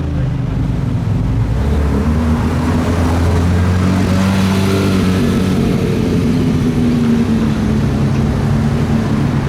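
Loud car engine running at low revs, its pitch drifting slightly up and down and loudest around the middle.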